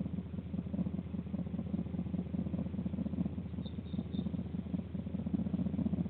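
A steady low mechanical rumble with a fast flutter, with three faint high chirps close together about three and a half seconds in.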